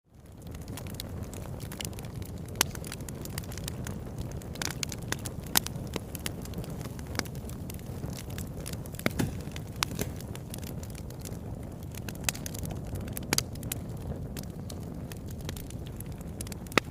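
Wood fire burning in a fireplace, fading in at the start, then a steady low rumble of flames with constant crackling and a few louder pops.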